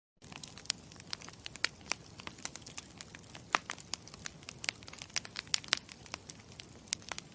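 Campfire crackling: a steady hiss with frequent sharp, irregular pops and snaps. It cuts in abruptly just after the start and cuts off abruptly at the end.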